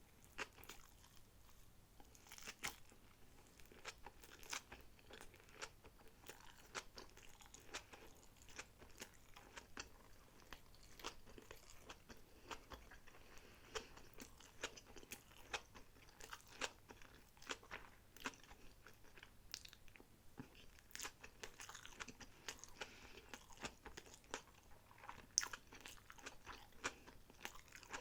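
Close-miked chewing of sushi rolls, with many irregular wet mouth clicks and soft crunches.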